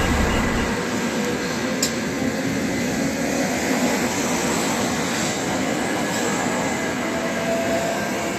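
Shinkansen train running on the station track: a steady, loud rushing rail and wind noise, with a deep rumble in the first second and a brief click about two seconds in.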